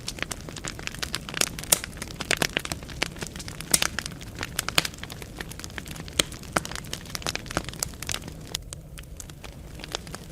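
Wood fire burning in a fireplace, crackling with many irregular sharp pops and snaps over a low, steady rumble of the flames.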